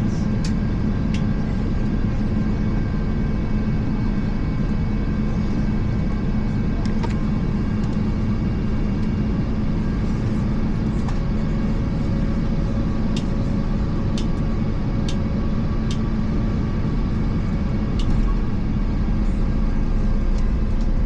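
Steady cabin noise of an Airbus A350 airliner: a dense low rumble of engine and airflow with a constant hum, getting slightly louder near the end. A few faint clicks and ticks from the cabin sound through it.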